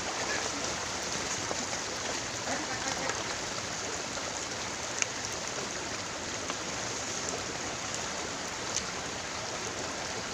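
Steady rush of flowing river water, with two faint clicks near the middle and toward the end.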